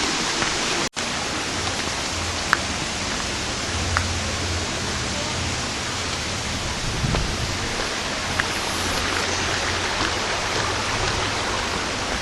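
Steady rushing water of a forest stream, with a few faint ticks; the sound drops out for an instant about a second in.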